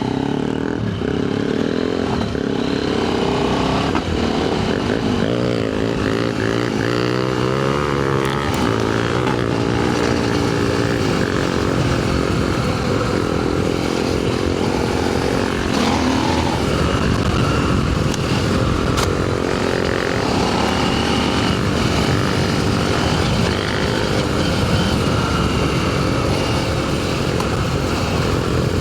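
Adventure motorcycle engine running under way on a dirt trail, its revs rising and falling, over steady wind and tyre noise.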